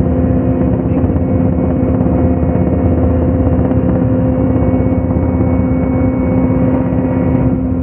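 Steady hum of a flying rotor aircraft's motors and rotors, holding one constant pitch over a low rumble.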